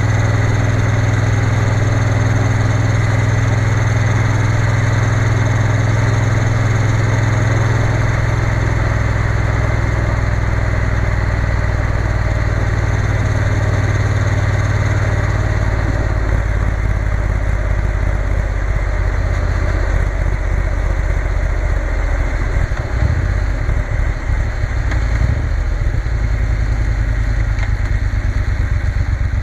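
Triumph Bonneville T120 parallel-twin motorcycle engine running on the road, a steady note for the first half; about halfway through the note wavers and changes unevenly for several seconds, then settles again near the end.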